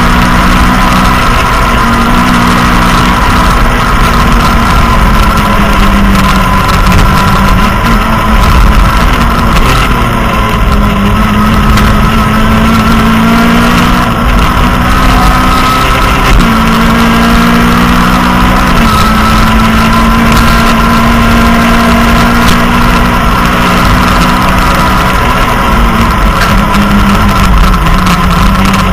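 Citroën Saxo rally car's engine at full throttle, heard from inside the cabin. Its pitch climbs with the revs and drops sharply at each gear change, several times over.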